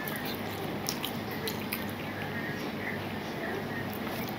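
Chewing a mouthful of rice, dal and curry, with scattered wet mouth clicks and smacks, over a steady low hum. Near the end, fingers mash rice and dal on a steel plate.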